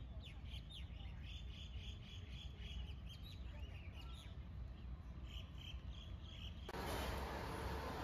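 Faint birds chirping, many short calls, over a low steady rumble. Near the end this gives way abruptly to a louder, even hiss of restaurant background noise.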